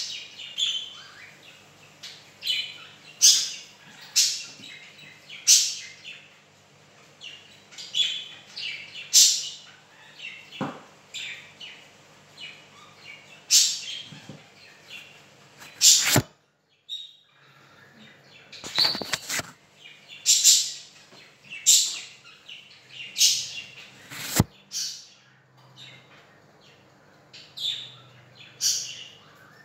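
A pet bird chirping over and over: short, sharp high calls, irregular, at roughly one a second. A few knocks fall in between.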